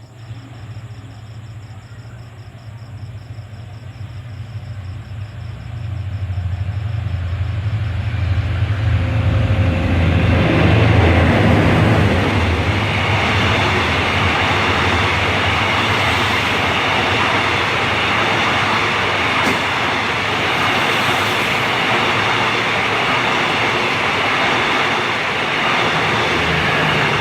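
Diesel-hauled passenger train passing. A low locomotive engine hum comes first, then the rush of wheels on rail builds, peaks about ten seconds in and holds steady as the coaches go by.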